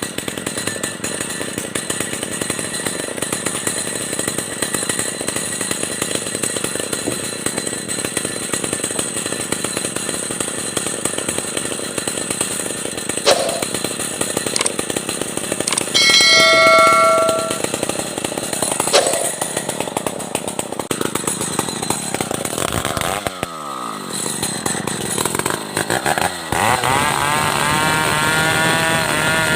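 Stihl 070 two-stroke chainsaw running at high revs while sawing timber into planks, with a few sharp knocks. A brief high-pitched whine about halfway through is the loudest moment. Near the end the engine note drops and then climbs again.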